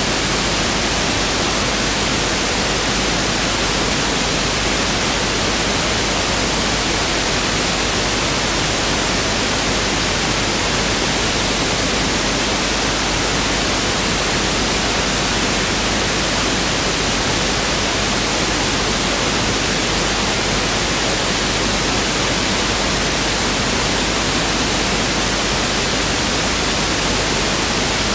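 Pink noise test signal (1/f noise): a steady, unchanging hiss that spreads evenly across the whole range, with no events or changes.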